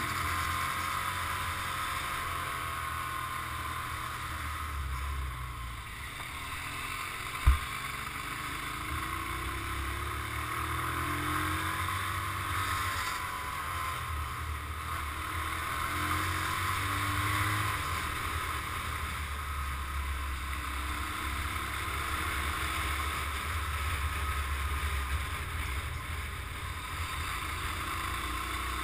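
Motorcycle engine running on the move, its pitch rising and falling with the throttle, under steady wind and road noise. A single sharp knock about seven and a half seconds in.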